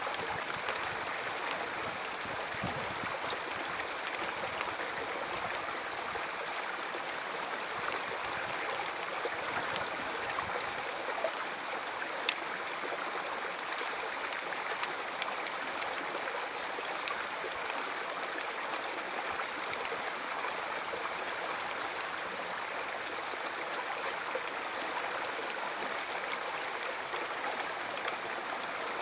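A river stream flowing steadily, its water rushing and trickling over stones, with an occasional light splash or tick.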